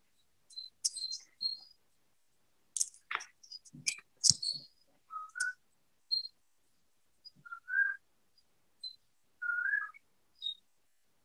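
Intermittent short chirps and whistled notes, like small birds calling, some rising slightly in pitch, with a few sharp clicks in the first half.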